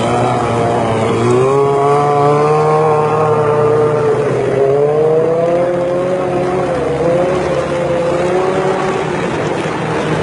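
Motorcycle engine running hard under throttle, its pitch climbing about a second in and holding high, sagging briefly near the middle, then rising again.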